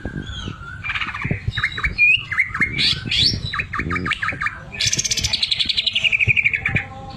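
Cucak ijo (green leafbird) singing a varied string of whistles, chips and quick glides, then a fast rattling trill that slides down in pitch near the end. The trill is the 'sewing machine' (mesin jahit) mimicry this bird is kept for.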